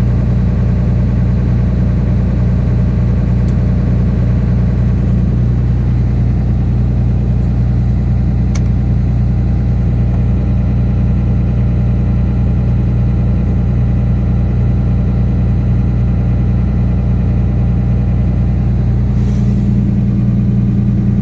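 Dodge Ram 2500's 5.9 L Cummins inline-six turbodiesel idling steadily, its engine still warming up from a cold start.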